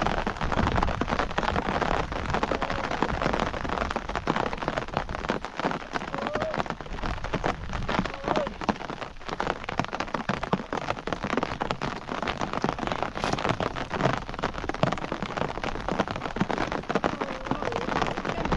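Steady rain falling, with dense pattering of drops on a surface.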